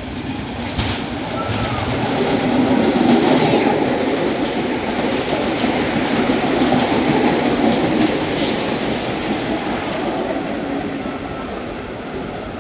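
New York City subway train running along the track, a dense rumble with clickety-clack that swells to its loudest in the middle and slowly fades, with a few sharp clicks and a brief high hiss about two-thirds of the way through.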